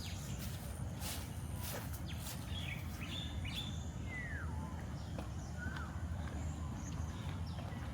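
Wild birds calling in garden trees: a few short chirps and whistles, one sliding down in pitch, over a steady low background rumble. Footsteps sound in the first couple of seconds.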